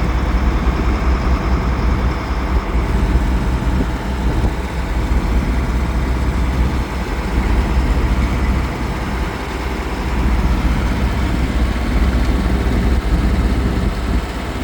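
A shrimp boat's engine running steadily, a low drone with a constant hum.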